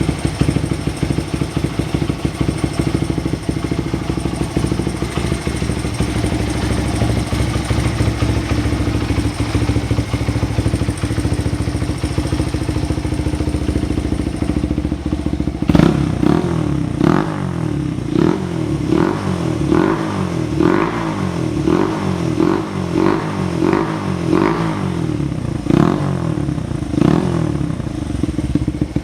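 Honda Ape 100 (HC07) air-cooled single-cylinder four-stroke engine running through an aftermarket custom muffler. It idles steadily for about the first half, then gets a quick run of short throttle blips, more than a dozen, before dropping back to idle near the end.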